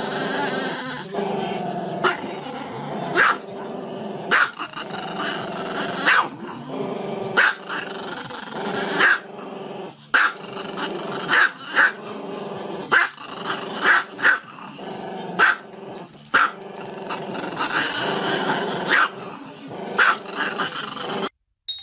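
A dog growling without a break, with short loud barks roughly every second or so; it cuts off suddenly near the end.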